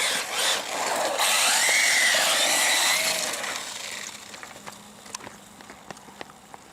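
Electric motor and drivetrain of a 1:10 scale RC car whining at speed, its pitch rising and falling as it accelerates and brakes, then fading away after about three seconds; faint ticks follow.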